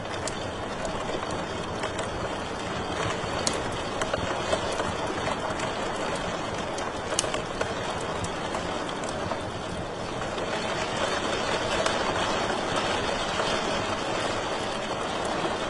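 Wood fire crackling in a fireplace: a steady hiss with scattered sharp pops, the sharpest about seven seconds in.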